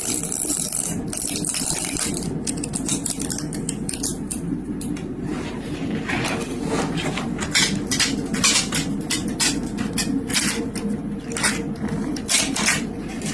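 A steady motor hum runs throughout. From about two seconds in, many short, sharp hissing and crackling bursts come over it, closer together in the second half.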